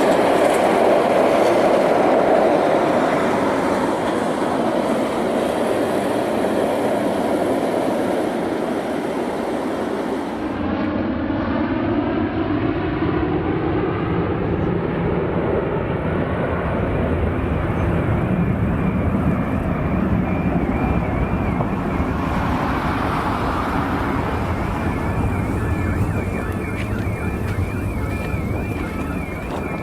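Loud jet noise from a Tu-160 bomber's four afterburning turbofan engines as it takes off, a steady rushing noise whose tone sweeps as the aircraft passes. Near the end a warbling siren-like alarm tone comes in over it.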